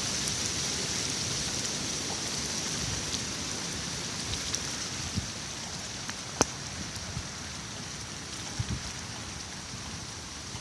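Steady rain falling: an even hiss with scattered sharp ticks, one louder tick about six seconds in.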